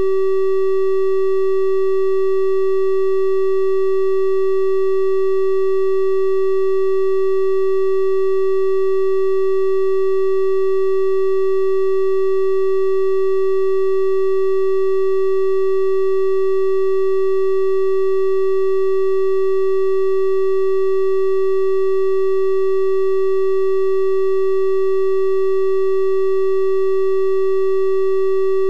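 Synthesized 384 Hz triangle-wave test tone, held steady and unchanging at one pitch, with its faint higher overtones giving it a slightly brighter sound than a pure sine.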